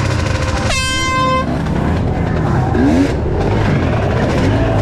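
Several enduro motorcycle engines running and revving together. About a second in, a loud horn sounds for under a second.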